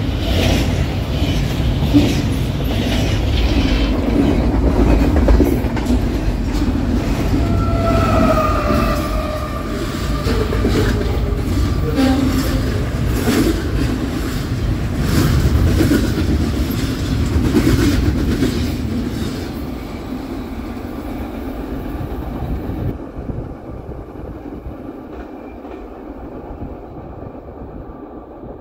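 Double-stack intermodal freight cars rolling past at high speed: a steady rumble with rapid clicking of wheels over rail joints and a brief squealing tone about eight seconds in. The sound fades away over the last third as the end of the train moves off down the track.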